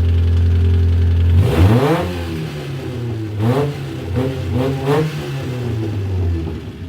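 Car engine idling, then revved: a sharp rise about a second and a half in, followed by three quick blips before it drops back to idle near the end. The engine has a knock that the owner puts down to a piston striking the cylinder head.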